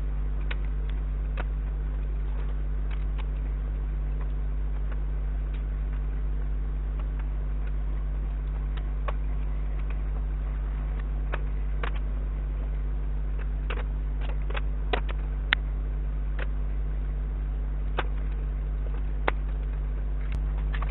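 Steady low electrical hum with scattered light clicks and taps, a few sharper ones about fifteen seconds in.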